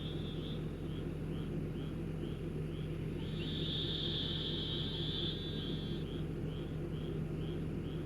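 A chorus of small calling animals: short high chirps repeating about twice a second, joined by a steady high trill from a little past three seconds until about six seconds in, over a steady low hum.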